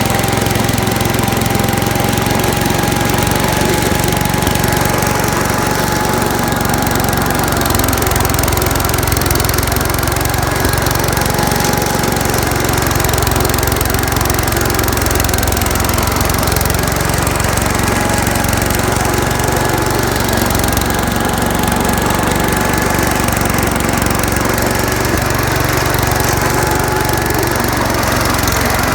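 Gravely C10A walk-behind tractor's engine running steadily, with a thin, steady whine over the engine note.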